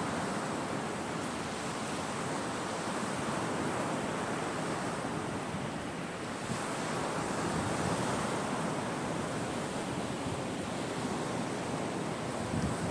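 Sea waves breaking and washing on a shore: a continuous surf that swells a little louder around the middle, with wind.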